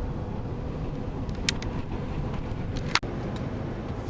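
Steady road and engine rumble heard from inside a moving car, with two sharp clicks, the louder one about three seconds in.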